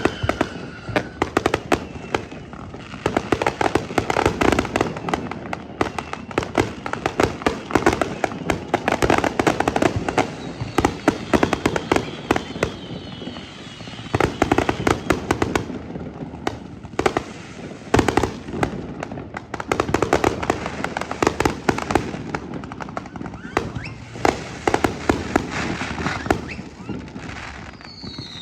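Dense fireworks barrage from a barge-launched display: rapid sharp bangs and crackling, with a few falling whistles near the start and again near the end.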